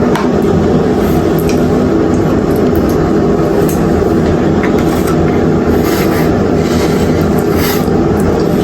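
Hotel-room air conditioner running: a loud, steady hum and whir that does not change, with a few faint clicks and taps over it.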